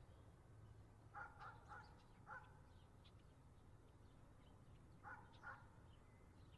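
Faint, short animal calls, a quick run of four about a second in and two more near the end, with small birds chirping faintly.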